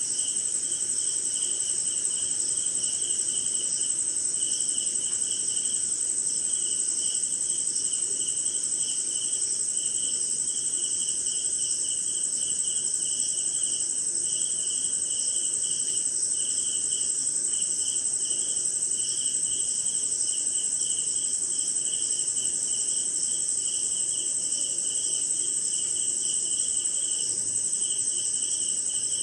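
Night chorus of crickets and other insects: one high, unbroken trill over a lower chirping that comes in short, uneven pulses.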